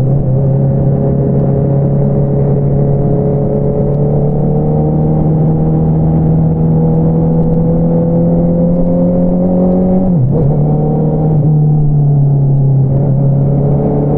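2022 Honda CBR650R's inline-four engine through an Akrapovič single-outlet exhaust, pulling steadily as its pitch slowly rises. About ten seconds in the note drops sharply for a moment at a gear change, then runs on a little lower and steady.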